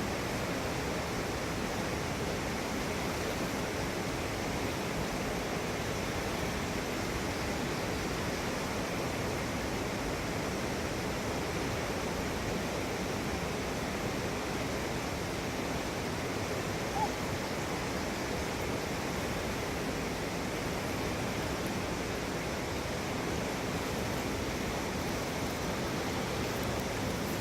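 Potomac River rapids rushing: a steady, unbroken whitewater roar of standing waves.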